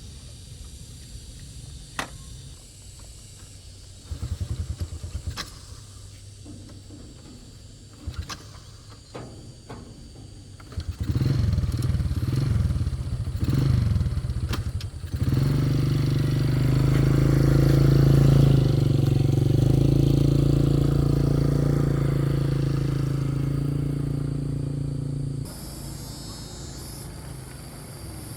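A few sharp clicks, then a vehicle engine starts with rough, uneven revving about 11 seconds in. It settles into a steady running note that grows louder, then slowly fades and cuts off about 25 seconds in.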